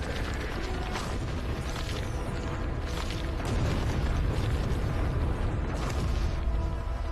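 A heavy, continuous deep rumble with creaks and knocks running through it, under music.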